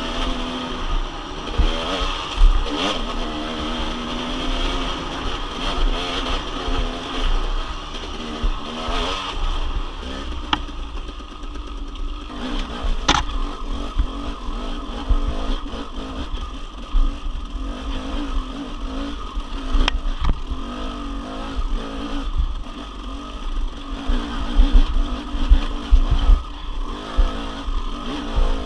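Dirt bike engine running under way, its pitch rising and falling with the throttle, steadier in the second half, with frequent low thumps.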